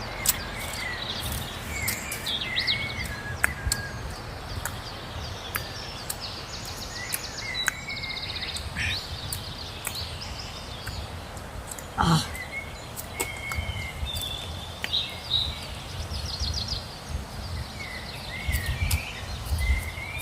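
Birds calling throughout, with short chirps and fast trilling notes, over a low rumble. There are scattered clicks and one sharp knock about twelve seconds in.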